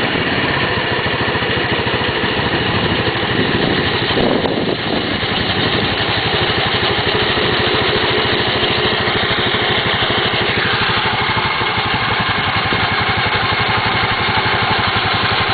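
G4 scooter engine running steadily, with an abnormal noise coming from around its CVT drive (transmission) area. A faint high whine comes in briefly around the middle.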